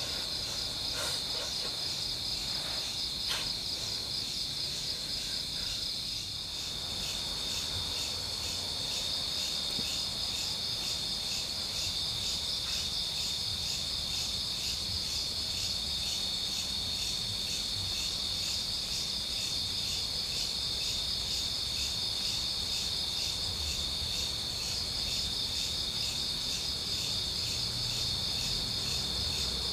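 A chorus of night insects, mostly crickets, trilling steadily in the forest, a high, even, pulsing chirr that holds the whole time.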